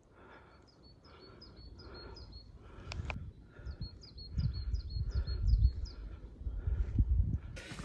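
A small songbird singing two runs of quick, evenly repeated high notes, about three notes a second, with a pause between the runs. Under it, wind rumbles on the microphone and grows louder toward the end.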